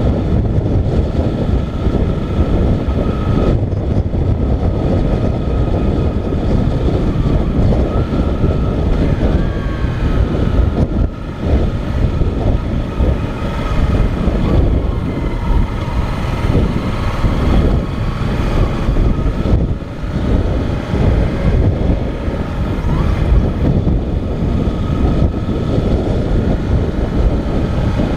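Motorcycle running at road speed, heard from the GoPro mounted on it, with heavy wind rush over the microphone. The engine note rises and falls a few times with the throttle.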